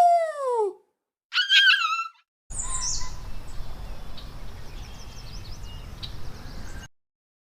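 A short descending cry, then a brief wavering squeal, followed by an outdoor recording of small birds chirping over a steady background hiss that cuts off abruptly near the end, leaving silence.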